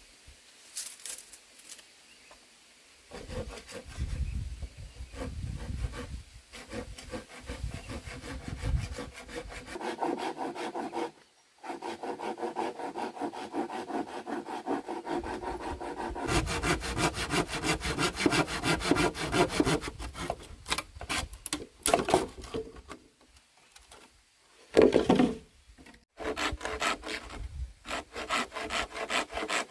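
Wood being sawn by hand in fast, even rasping strokes, in several runs with short breaks.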